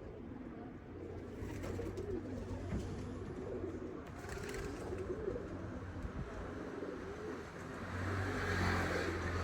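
Domestic pigeons cooing, several birds overlapping in a continuous low warble. About eight seconds in, a rushing noise with a low hum swells briefly underneath.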